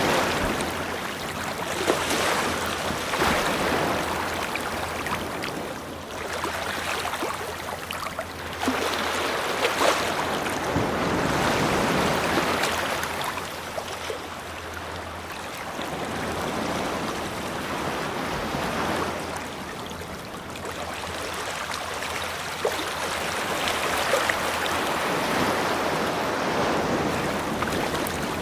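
Ocean waves breaking and washing up on a beach, the surf swelling and easing every few seconds.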